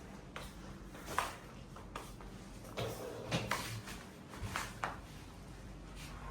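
A series of irregular sharp knocks and clicks, roughly one every half second to a second, over a faint steady hum.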